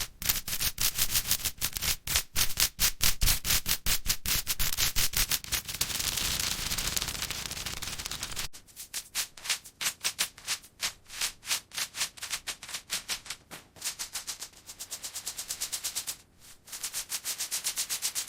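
Rapid, sped-up rubbing and clicking strokes from hands working matchsticks, several a second. About halfway through there is a short break, after which the strokes come more sparsely, with brief pauses.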